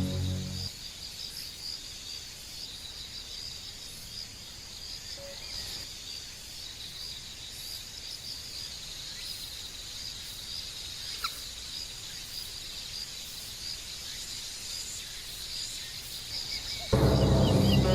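Outdoor natural ambience: a steady high-pitched chirring and twittering, like small birds and insects, with one short rising chirp about eleven seconds in. Loud background music stops just under a second in and comes back near the end.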